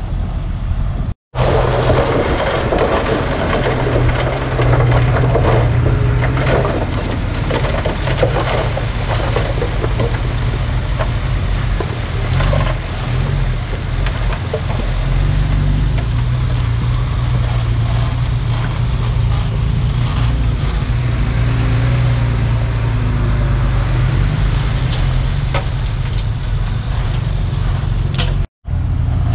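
Heavy diesel earthmoving machinery working, its engine running steadily under load with scraping and clatter over the drone. The sound cuts out briefly about a second in and again near the end.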